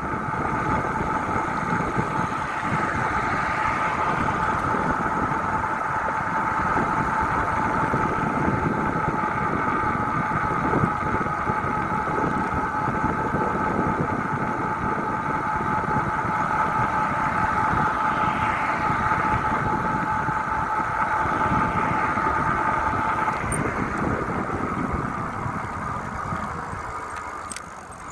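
Steady running noise of a bike on the move: a wind and road rumble with a steady whine. The whine stops near the end and the noise falls away.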